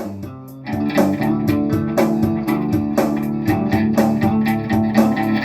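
Instrumental band music: guitars and bass playing a steady rhythm between sung lines, after a brief drop in level about half a second in.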